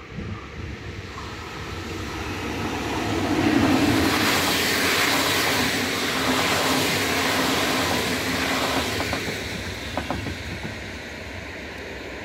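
Passenger train passing close by at speed: a rush of wheels on rail that builds to a peak about four seconds in, holds, then fades, with a few sharp clicks near the end.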